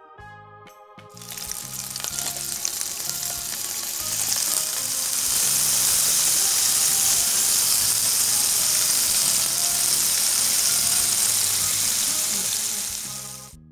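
Bitter melon rings sizzling as they fry in hot oil in a pan. The sizzle swells over the first few seconds as more rings go in, holds steady and loud, then cuts off suddenly near the end. Soft keyboard music runs underneath.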